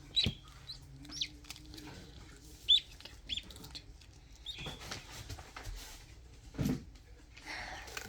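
Newly hatching duckling peeping: about six short, high peeps, irregularly spaced over the first few seconds. A soft knock comes about two-thirds through, and there is a brief rustle near the end.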